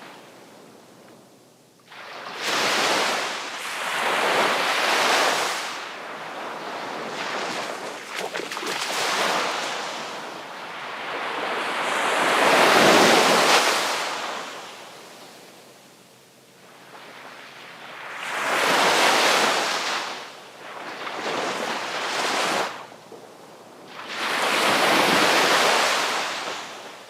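Sea waves breaking on the shore, wave after wave swelling and washing back, with the biggest break about halfway through.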